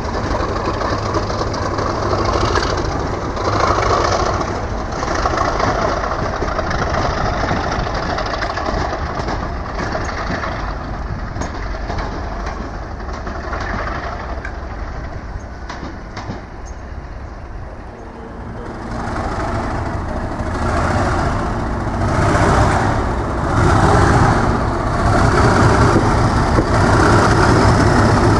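Loco-hauled test train coaches rolling past close by, wheels running on the rails. Partway through the sound changes and then builds louder as a train runs by again near the end.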